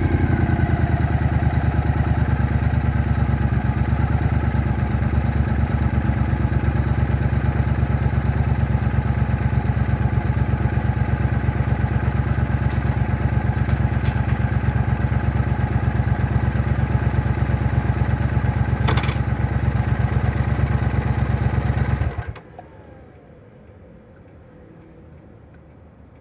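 Triumph Bonneville T120's 1200 cc parallel-twin engine idling steadily with an even pulsing beat and a single sharp click about 19 seconds in, then cutting out suddenly about 22 seconds in as it is switched off, leaving only a faint background.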